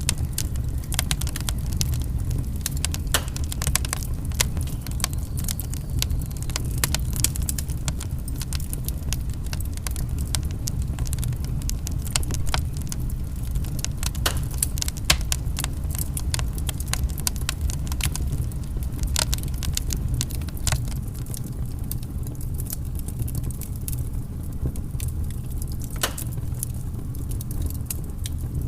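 Wood fire crackling and popping: a steady stream of sharp snaps over a constant low rumble of burning.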